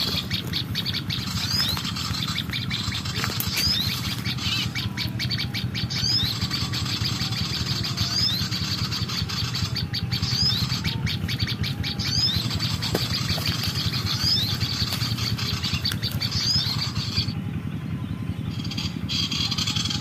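Small birds chirping: short, high, rising chirps repeated every second or few seconds over a steady low hum, with runs of faint clicks around the middle.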